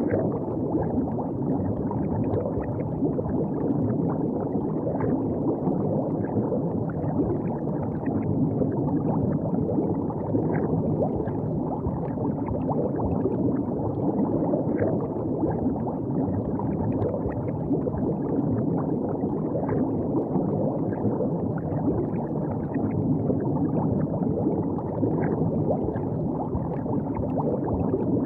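River water flowing and gurgling steadily, with small splashes scattered throughout.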